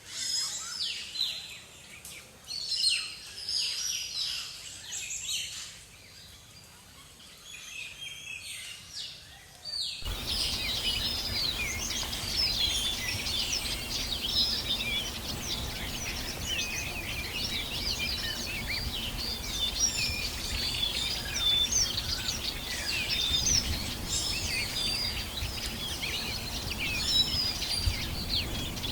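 Tropical forest birds calling: at first separate chirps and short calls. About ten seconds in, the sound changes abruptly to a dense chorus of many birds chirping at once over a steady forest hiss.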